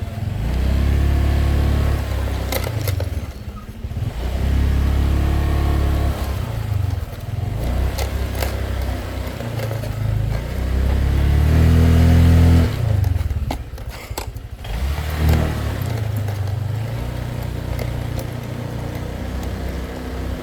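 Honda Click 125i scooter's small single-cylinder engine revving up and easing off again and again, loudest about twelve seconds in, with scattered knocks and clatters as it rides over rocks.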